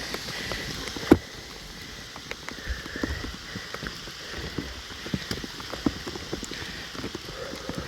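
Rain falling, with irregular sharp ticks of drops striking close to the microphone and one louder knock about a second in.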